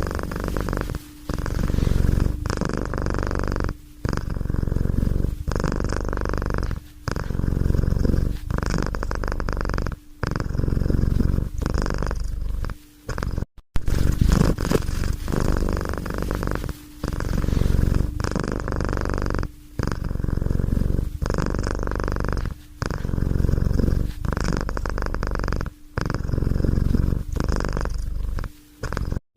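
Domestic cat purring close to the microphone, a steady low rumble broken by short pauses about every three seconds as it breathes. It cuts out for an instant about halfway through.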